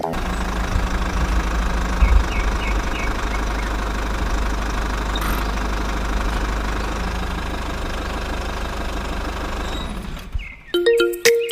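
Small engine of a miniature DIY water pump running steadily, then cutting off about ten seconds in.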